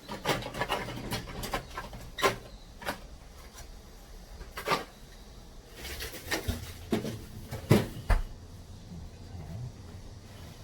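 Irregular clicks and knocks of hard objects being handled, about a dozen spread unevenly, with the loudest pair a little past two-thirds of the way through.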